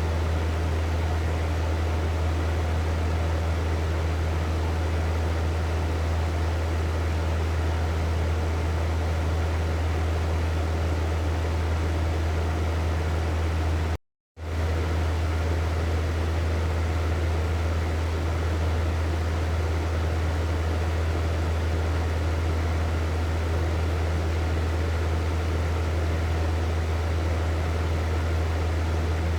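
Hair dryer running steadily: an even rush of air over a strong low motor hum. It cuts out completely for a split second about halfway through, then resumes unchanged.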